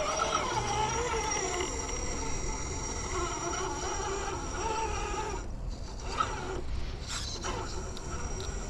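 Electric motor and ESC whine of an RC rock crawler creeping over rock, the pitch rising and falling with the throttle over a steady high-pitched tone, with a lull and a few small clicks and knocks past the middle.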